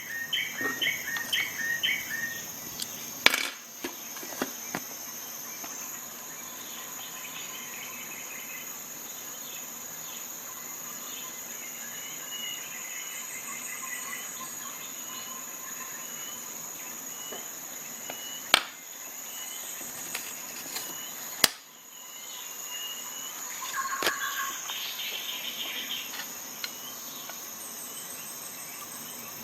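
Insects droning with a steady high buzz, with bird chirps near the start and again near the end. Four sharp clicks are scattered through it.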